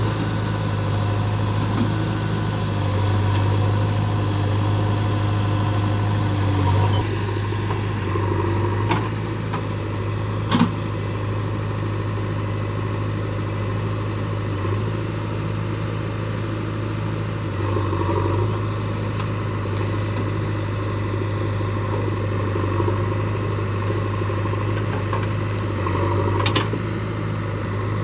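Diesel engine running steadily at idle, with a few sharp knocks over it, the loudest about a third of the way through.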